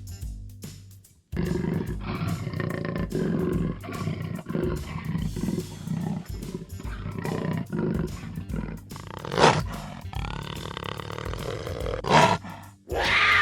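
A jaguar's growls and roars, played as a sound effect over background music. The roars peak sharply about nine seconds in and again near the end.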